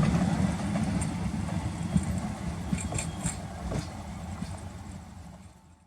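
A halted express train's locomotive running at a standstill, a steady low hum with a few faint clicks, gradually fading out to silence.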